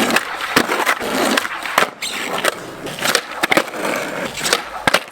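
Skateboard wheels rolling over concrete, with several sharp clacks of the board striking the ground. The board's trucks are set very loose.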